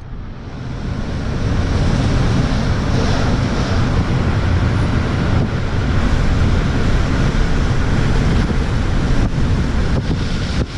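Wind buffeting the microphone: a loud, steady rushing noise, heaviest in the low end, that builds over the first second or so.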